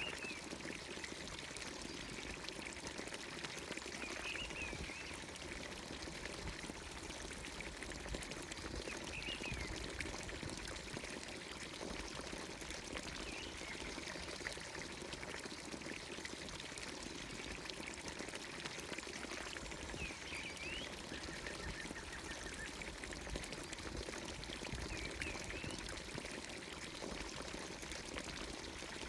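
Water pouring steadily from a village fountain's spout into its trough. A bird gives a short chirping call about every five seconds.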